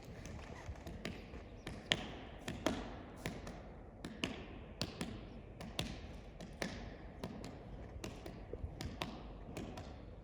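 A series of irregular light taps and knocks, roughly one or two a second, over a low steady rumble.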